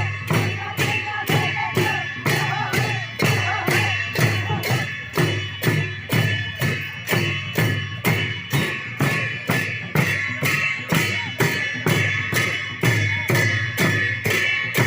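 Drum and cymbals played in a steady, even beat of about two strokes a second, the cymbals ringing on between strokes, as in traditional Sakela dance music on dhol and jhyamta.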